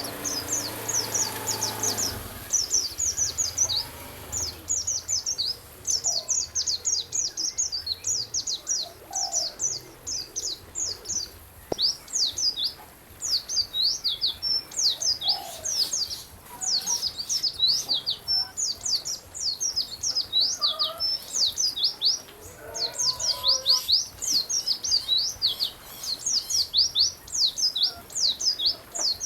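Songbird singing a fast, continuous chirping song: rapid high-pitched notes that each sweep downward, strung together almost without pause.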